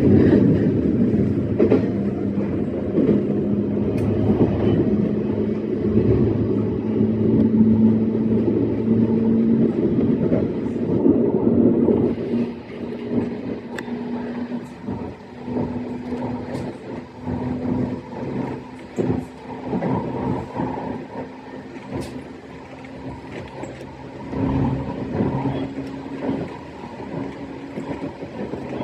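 E131-series electric train running along the line, heard from inside at the front: a steady hum with wheel-on-rail noise. It drops noticeably in loudness about twelve seconds in and becomes more uneven.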